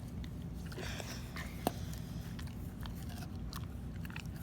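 A dog chewing and crunching a jerky treat, with irregular crisp crunches; the sharpest crack comes about a second and a half in. Its teeth are sore, which the owner says makes chewing hard for it.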